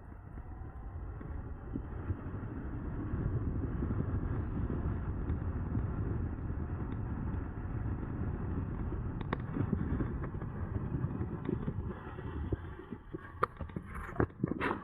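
Wind rush and rolling noise from a moving e-bike. It swells over the first few seconds as the bike picks up speed, then holds steady, with a few sharp knocks and rattles near the end.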